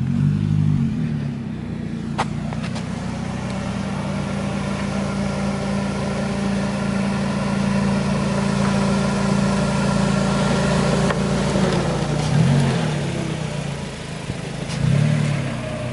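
Toyota Corolla engine running at low speed as the lowered car creeps slowly up a driveway, steady apart from a single sharp click about two seconds in and two short throttle blips near the end.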